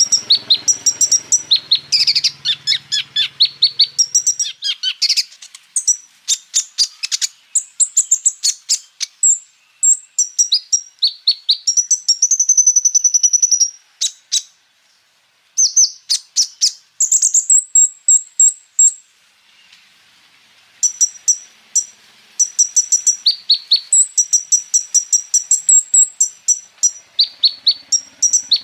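Kolibri ninja, a sunbird, singing a fast, high-pitched song of rapid chips and rolling trills, broken by two short pauses about halfway through.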